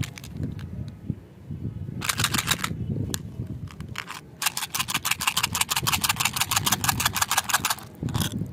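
Rapid, even clicking, about ten clicks a second: a short run about two seconds in and a longer one from about four to nearly eight seconds, over a low rumbling murmur.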